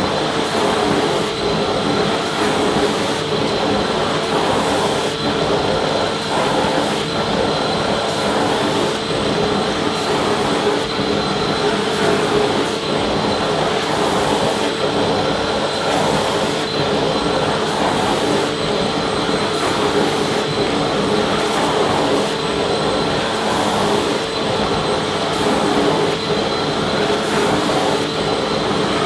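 Vacuum cleaner running steadily without a break: an even rushing of air with a constant motor whine.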